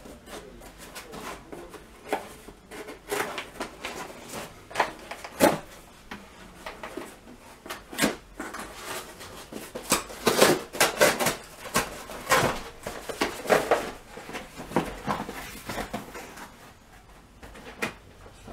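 Packaging being handled and opened by hand: an irregular run of rustles, scrapes and knocks, busiest a little past the middle.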